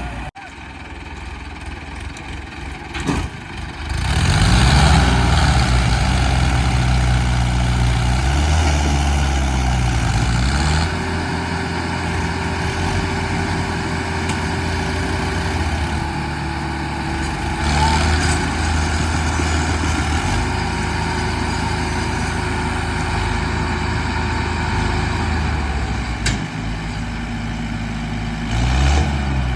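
Arjun tractor's diesel engine running. Its revs climb about four seconds in, ease off around ten seconds, then hold steady before rising again near the end.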